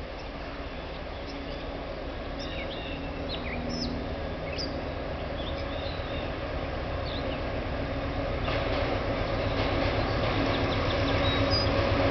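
Amtrak passenger train approaching, its rumble growing steadily louder. Birds chirp over it during the first two-thirds.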